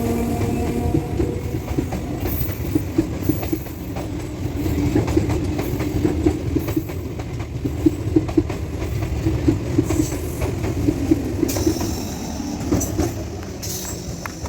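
Train running past on the track, a steady rumble with wheels clicking and clacking over the rail joints, easing off slightly near the end.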